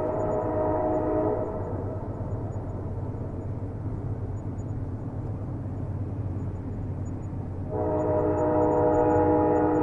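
Train horn sounding a steady multi-note chord, breaking off about a second in and sounding again near the end, over the continuous low rumble of the moving train.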